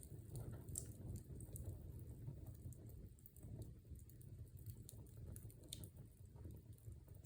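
Wood fire in a fireplace crackling: scattered sharp pops and ticks at irregular intervals over a soft, low rumble of the flames.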